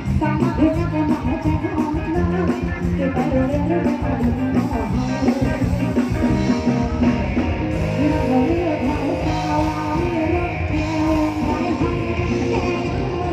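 Live band music played at full volume, with a steady drum-kit beat, guitar and a wavering melodic lead line.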